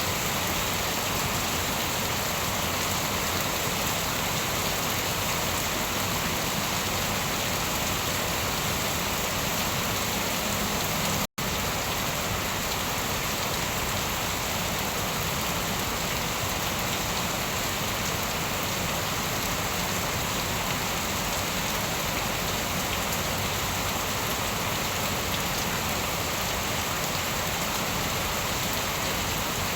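Steady, continuous rain, an even hiss of many drops with no thunder. The sound cuts out completely for an instant about eleven seconds in, like a seam in a looped recording.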